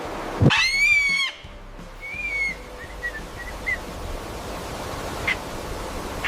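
A bird calling over background music: one loud, wavering high call about half a second in, then a shorter call and a few brief chirps.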